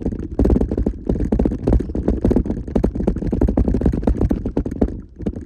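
Jeep Wrangler JKU Rubicon driving a rough trail: a constant low rumble with many rapid knocks and rattles.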